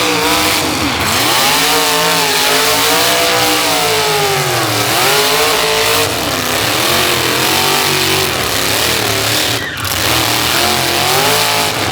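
A high-powered car engine revving hard, its pitch swooping up and down again and again, over a constant loud hiss of noise.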